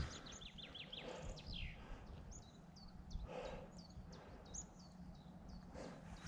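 Faint songbird calls: a quick run of short falling chirps at the start, a longer downward whistle, then scattered high chirps, over a steady low rumble of wind and outdoor ambience.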